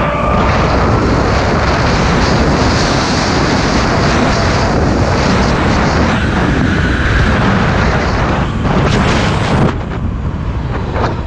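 Heavy wind buffeting on the microphone while riding a Zero electric motorcycle at speed; the rush eases about ten seconds in.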